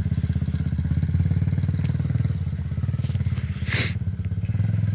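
Kayo TD125's 125 cc four-stroke single-cylinder engine running at a steady idle. A short sharp high noise cuts in briefly about four seconds in.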